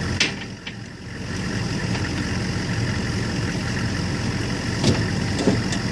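Military gun truck's engine idling steadily, a constant low rumble, with a sharp click just after the start and the level dipping briefly for about a second.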